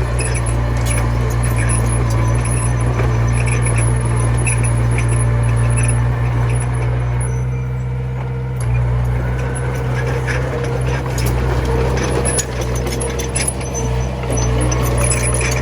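Komatsu mini bulldozer's diesel engine running steadily under work, with metallic clinks and knocks over it; the engine eases briefly about halfway through.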